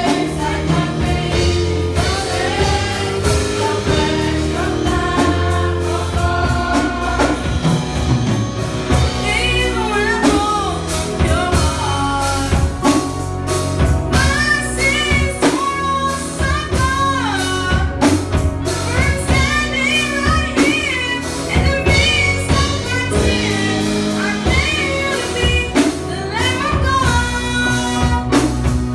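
Gospel-style singing, one voice or a small group, with a band playing a steady beat underneath on bass and drums.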